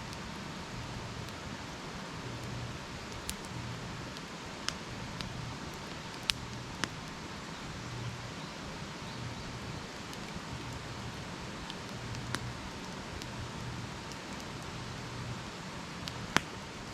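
Wood campfire burning: a steady hiss with sharp crackles and pops every few seconds, the loudest pop near the end.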